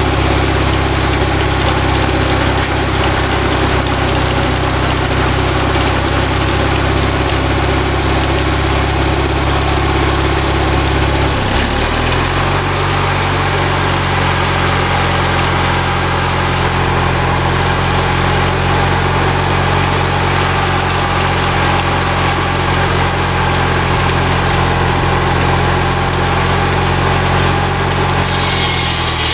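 Small lawnmower engine driving a homemade sawmill, running steadily; its note changes abruptly about a third of the way in and then holds steady.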